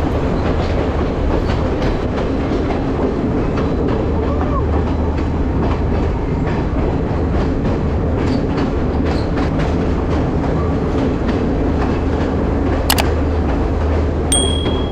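S14 diesel train set running along the track: a steady rumble of engine and wheels with the clickety-clack of rail joints. Near the end there is one sharp click, then a brief thin high tone.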